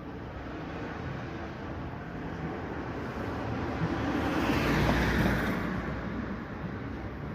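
A vehicle passing by: a steady road noise that builds to its loudest about five seconds in, then fades.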